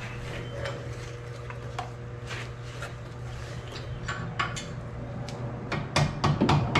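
Light metallic clinks of steel tools being handled, then, near the end, a hammer begins striking a cold chisel in quick repeated blows, driving it into the steering knuckle's clamp slot to spread it and free the strut.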